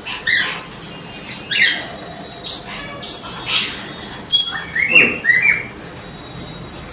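Young lory parrots giving a string of short shrill squawks, with the loudest, harshest screech about four seconds in and a few falling calls just after.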